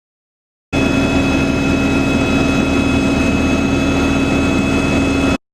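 Steady, loud helicopter noise heard from inside the cabin: turbine whine and rotor drone running evenly. It starts abruptly under a second in and cuts off suddenly near the end.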